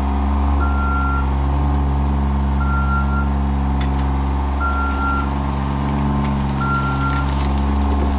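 Engine of a heavy work machine running steadily while its reversing alarm beeps, one beep about every two seconds: the machine is backing up.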